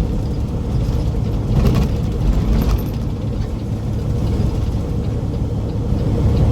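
Loaded semi truck's diesel engine running with steady low rumble and road noise while driving.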